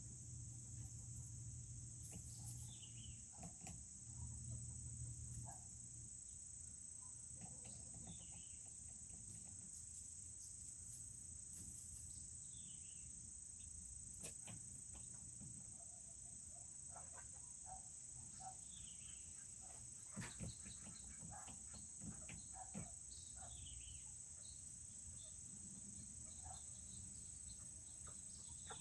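Faint, steady high insect trill of crickets, with short falling peeps from serama chickens every few seconds and scattered light taps.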